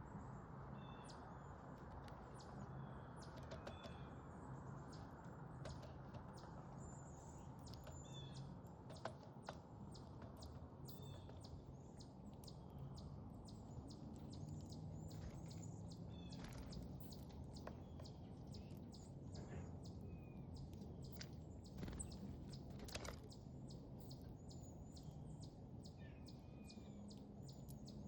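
Small backyard songbirds giving short, high chirps and calls at irregular intervals over a faint, steady low hum, with a few sharp clicks.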